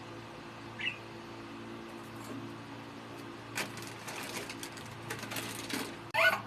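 Pet budgies: a short chirp near the start, then about two seconds of rapid scratchy clicking, and a loud budgie squawk near the end, over a steady low hum.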